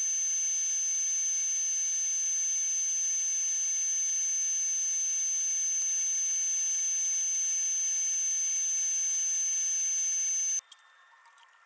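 A machine running steadily: a constant high whine over a hiss, which cuts off abruptly near the end and leaves only a few faint clicks.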